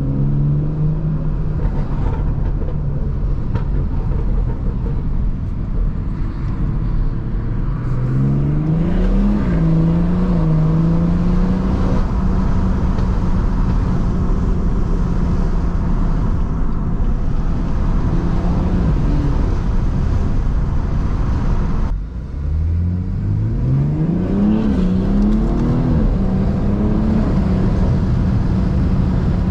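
BMW 340i's B58 turbocharged inline-six, running through a catless downpipe and resonator-deleted exhaust, accelerating hard twice through the gears. The engine note rises and drops back at each upshift, then settles to a steady cruise.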